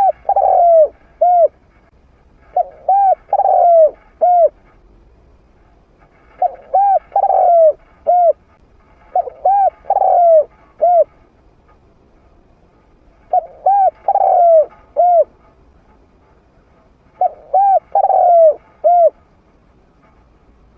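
Trained spotted dove cooing in short phrases of three to five notes, repeated six times about every three to four seconds, in a medium-pitched voice.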